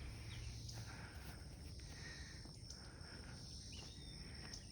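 Faint, steady high-pitched insect chorus in a forest, with soft footsteps about once a second.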